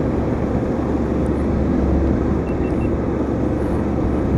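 Steady running noise of a moving vehicle on the road: an even low rumble. Three faint short beeps come about halfway through.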